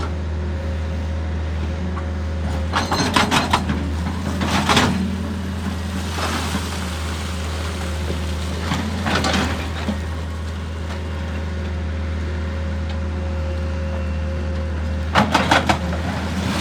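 A heavy excavator's diesel engine runs steadily. A few times, short bursts of rapid knocking and rock clatter rise above it, with about four or five quick strikes in each burst.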